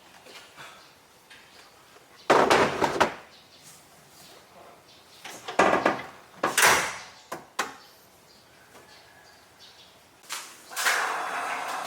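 A few sudden loud knocks and scrapes about two, six and seven and a half seconds in, like household doors or cupboards being handled. A steady rushing noise sets in near the end.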